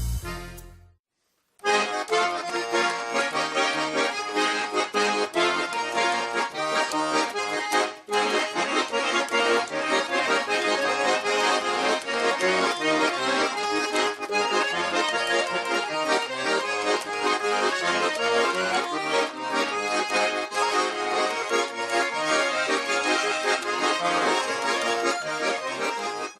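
Accordion playing a Russian folk tune, starting after a short silence about a second and a half in.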